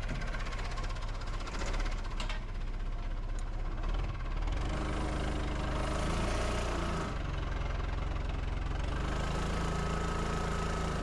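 Backhoe's diesel engine running steadily, its note rising and filling out about four seconds in as the boom and bucket are worked. A thin whine comes and goes twice.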